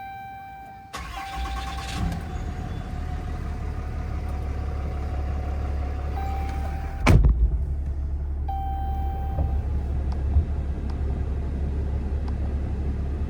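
2012 Ram 2500's 6.7-litre Cummins turbodiesel cranked by the starter about a second in, catching and settling into a steady idle. A steady chime tone comes and goes twice over the idle, and a single loud thump sounds about halfway through.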